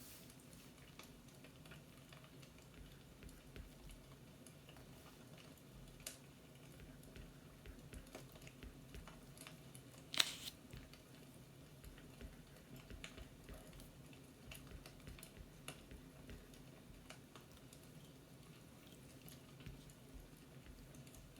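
Faint scattered light clicks and ticks over a low steady hum, with one sharper click about ten seconds in.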